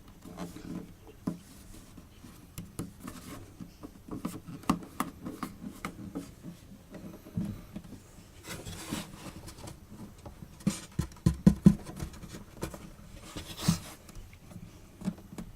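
Hands handling and rubbing over the wooden body of an acoustic guitar: scattered light knocks and scrapes, with a cluster of louder knocks about eleven seconds in.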